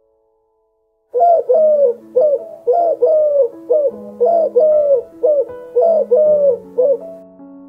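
A bird calling in a quick run of short, arching hoots, about two a second, starting about a second in, over soft piano music.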